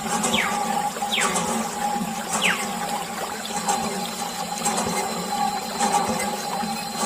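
Small DC motor water pump running steadily with a hum, and water gushing and splashing from it.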